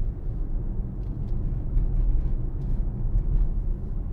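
2018 Mercedes-AMG GLC63 S on the move: a steady low rumble of road and engine noise.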